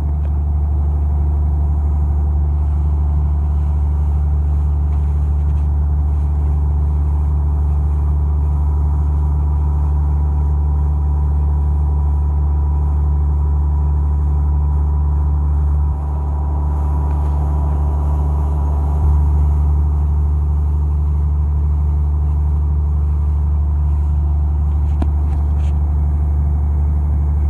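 Fishing boat's engine running steadily, a deep low hum. It dips slightly about sixteen seconds in and briefly picks up about three seconds later.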